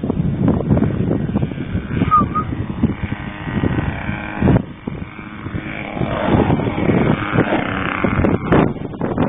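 Strong wind buffeting the microphone, with a trainer airplane's propeller engine droning faintly through it, louder for a few seconds past the middle.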